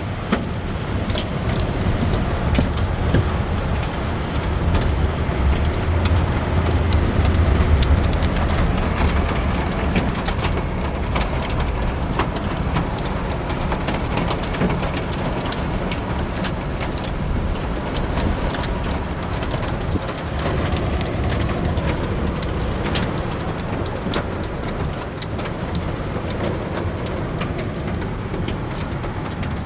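Heavy rain pelting a car's roof and windshield, heard from inside the car: a steady wash of noise full of sharp drop impacts, over a low rumble that is strongest in the first several seconds.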